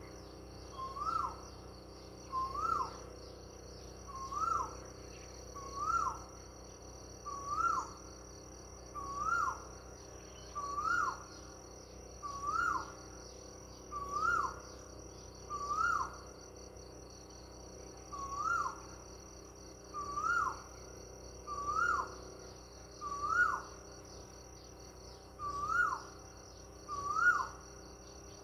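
A bird repeats one short call, a quick rise and fall in pitch, about every second and a half, over the steady high trilling of insects.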